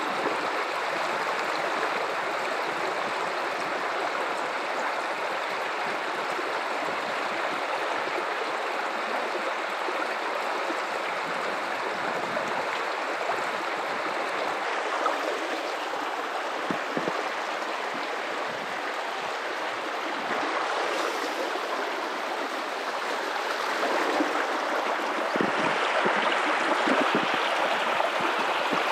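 River water running over rocks: a steady rushing and babbling flow, swelling a little louder near the end.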